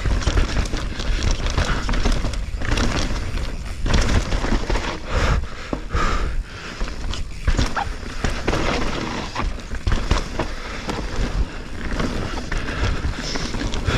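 Mountain bike descending a dirt trail: tyres rolling over soft dirt and roots, with frequent irregular knocks and rattles from the bike over bumps. A steady low rumble of wind on the microphone runs underneath.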